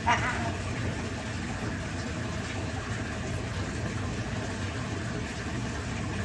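Bathroom tap water running steadily, a constant rushing noise. Right at the start there is a brief, high, pitched squeak.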